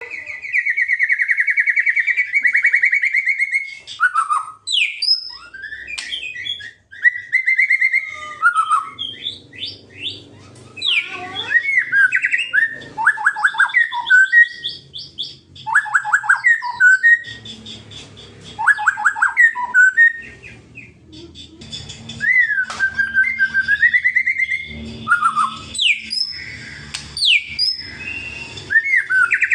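White-rumped shama (murai batu) singing, mixing long whistled phrases and sharp sweeps with bursts of rapid rattling 'kretekan' notes. This agitated rattle is the kind of call keepers play to provoke a rival shama into singing.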